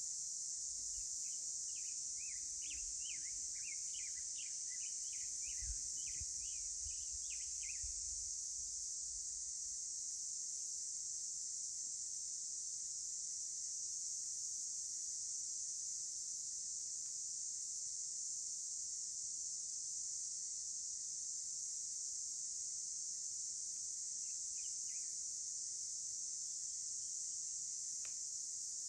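Steady high-pitched drone of insects, with a bird giving a quick run of short chirps during the first eight seconds and a few more chirps near the end.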